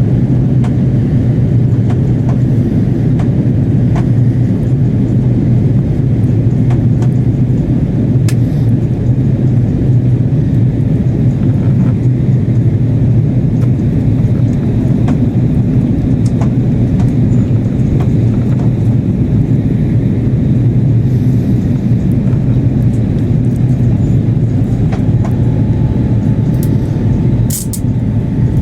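Steady cabin roar of an Airbus A330-300 in flight: engine and airflow noise heard inside the passenger cabin, with a strong low hum. A faint steady tone joins about 25 seconds in, and a brief sharp sound comes near the end.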